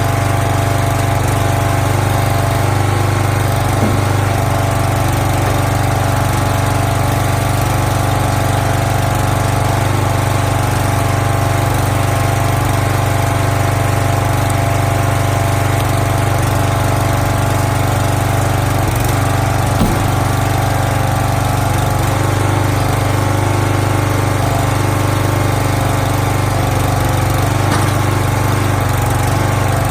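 Small gasoline engine of a log splitter running at a steady speed, a constant drone.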